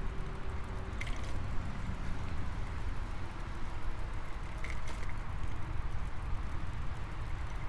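Ride noise from a bicycle: a steady low rumble of wind and tyres on the path. Two short sharp clicks or rattles come about a second in and again a little before the five-second mark.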